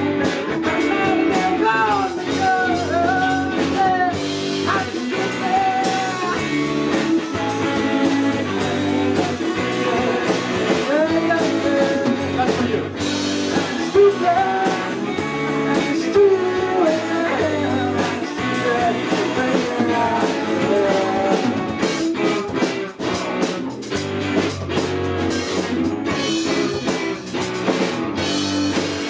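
Rock band playing live: electric guitar, bass and drum kit with a sung lead vocal.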